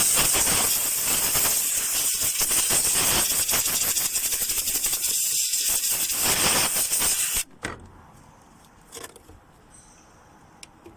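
A loud, steady hiss of gas or air jetting from a nozzle, like an aerosol spray or an air blower, lasting about seven and a half seconds and cutting off suddenly, then a few faint clicks.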